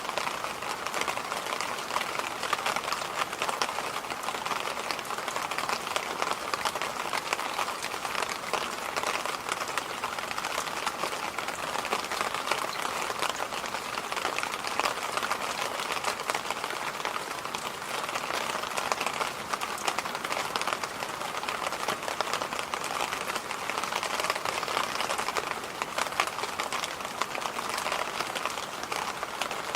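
Electric fan running steadily: an even rushing noise, strongest in the middle range, with a fine crackling texture through it.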